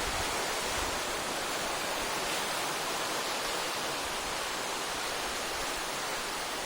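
Sea surf breaking on a rocky shore, heard as a steady, even rush of waves.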